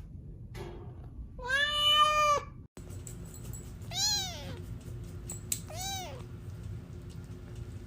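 A domestic cat meows three times: first one long, level meow, then two shorter meows that rise and fall in pitch.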